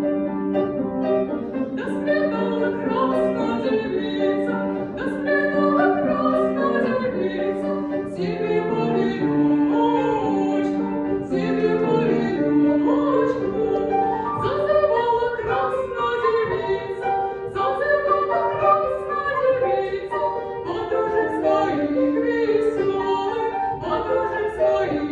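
A female voice singing a song with long held notes, over piano accompaniment.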